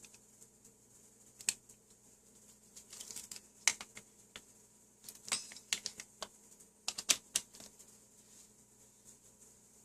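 Scattered sharp clicks and taps in small clusters, like small hard parts and tools being handled on a workbench, over a faint steady hum.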